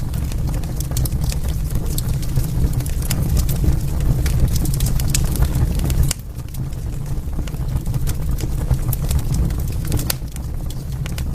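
Wood fire crackling in a fireplace: irregular sharp pops and snaps over a steady low rumble of burning logs. The rumble drops abruptly about six seconds in, then builds again.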